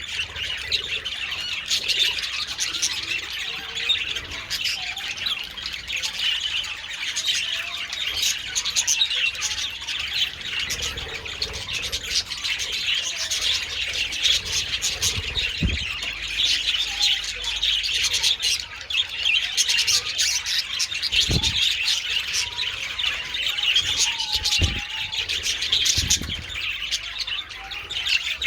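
A colony of budgerigars chattering continuously, a dense mix of squawks, chirps and warbles, with a few dull thumps in the second half.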